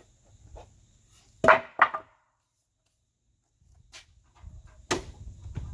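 Sharp wooden knocks from framing lumber being handled: two quick knocks about a second and a half in, then another knock near the end.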